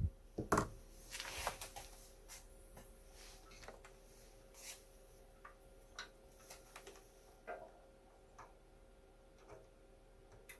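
Faint, scattered clicks and taps of hands working a small switch and handling test probes, about a dozen spread irregularly, over a faint steady hum.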